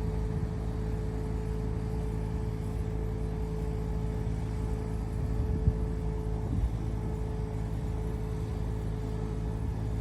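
2008 GMC 7500 bucket truck's engine running steadily: a low rumble with a thin, steady whine above it.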